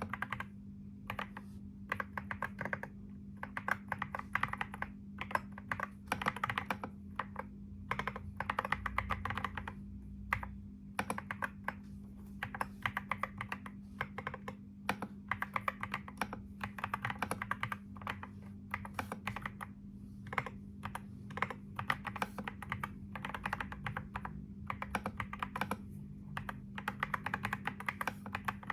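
Computer keyboard being typed on: rapid runs of keystroke clicks in bursts a second or two long, broken by short pauses, over a steady low hum.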